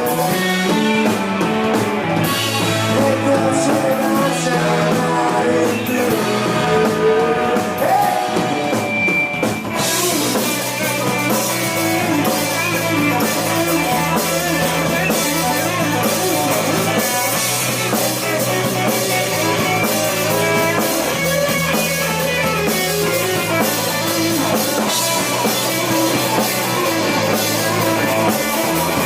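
Rock band playing an instrumental break on guitar, bass and drum kit. The band comes in fuller with cymbals about ten seconds in.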